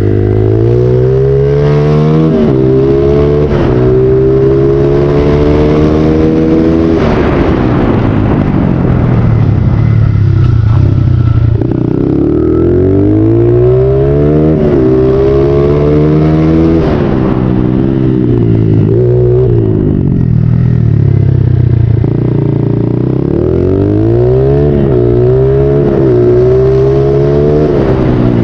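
Honda XR80 pit bike's small four-stroke single-cylinder engine under way, revving up and dropping again over and over as it runs through the gears, its pitch climbing with each pull.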